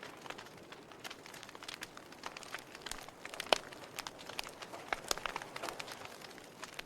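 Wood fire burning with an irregular crackle: a soft steady hiss under scattered sharp pops and snaps, the loudest snap about halfway through.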